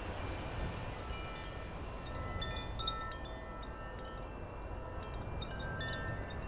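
Wind chimes ringing in a breeze, with many overlapping sustained tones struck at irregular moments and a busier cluster a couple of seconds in. Low wind rumble runs underneath.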